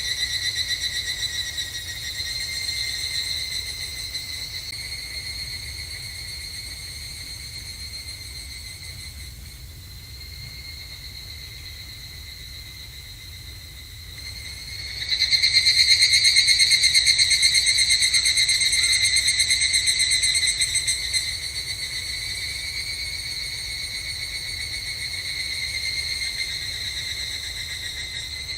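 Evening cicadas (higurashi) calling in fast pulsing trills. The chorus thins out in the middle; then a nearer call starts abruptly about halfway through, stays loud for about six seconds and drops back to quieter calling.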